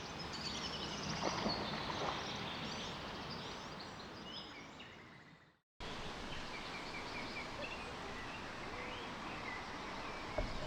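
Small birds chirping and trilling over a steady outdoor hiss. The sound fades out about five and a half seconds in, then cuts straight back in with more birdsong.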